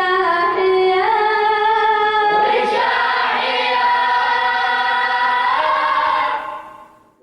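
A group of voices singing an Arabic devotional chant in long held notes. The notes change about two and a half seconds in, then the singing fades out near the end.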